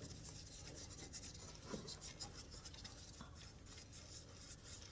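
Faint rubbing and handling sounds, with a few light knocks.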